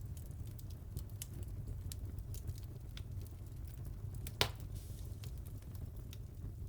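Wood fire in a fireplace crackling over a steady low rumble of flames, with scattered small snaps and one loud pop about four seconds in.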